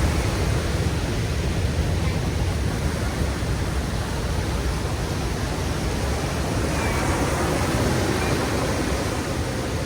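Ocean surf washing onto a beach: a steady rush of waves that swells slightly near the end.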